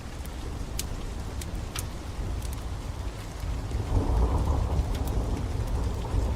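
Steady rain with a low rumble of thunder that swells about four seconds in, over scattered sharp crackles from a fire.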